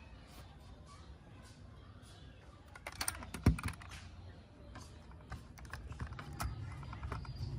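Light, irregular clicks and taps of small hard parts being handled, with one louder knock about three and a half seconds in.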